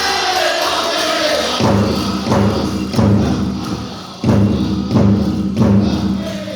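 Powwow drum group singing in high, shifting voices; about a second and a half in, heavy beats on the big drum come in, about every two thirds of a second, under the singing.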